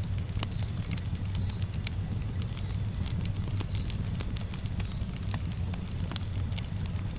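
Campfire burning: a steady low rumble of the flames with frequent sharp, irregular crackles and pops from the burning wood.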